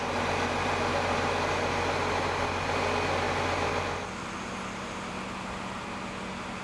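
A heavy engine running steadily, with site noise around it. It drops to a quieter level about four seconds in.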